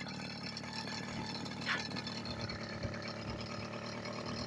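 Small motorized-bicycle engine running steadily while riding, with a brief high chirp about two seconds in.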